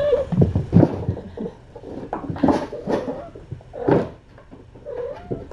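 Kittens playing and scuffling, making a run of irregular knocks, thumps and rustles. A cat's meow trails off at the very start, and a short meow comes near the end.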